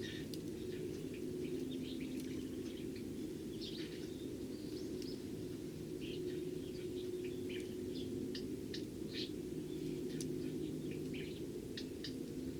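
Eurasian tree sparrows chirping: many short, separate chirps overlapping irregularly, over a steady low hum.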